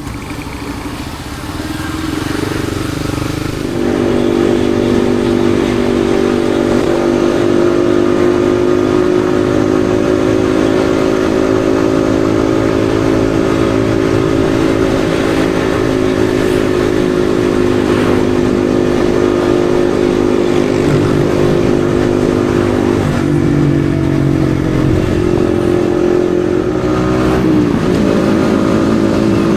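Yamaha XSR155's single-cylinder engine under way, climbing in pitch over the first few seconds and then holding a steady pitch at cruise, with a brief drop and recovery about 23 seconds in and another change near the end.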